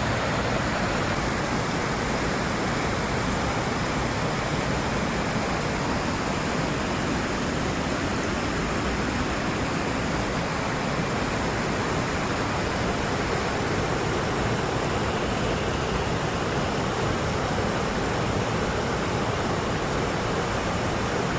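Whitewater of a river waterfall and rapids crashing, heard up close as a loud, steady rush.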